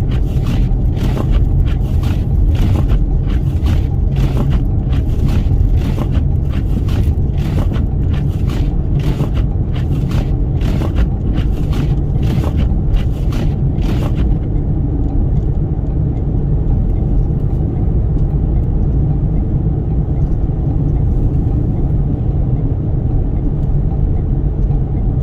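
Toyota Sienna van driving through a snowstorm: a steady low rumble of road and wind noise. Rapid, irregular ticking rides on top of it for a bit over half the time, then stops.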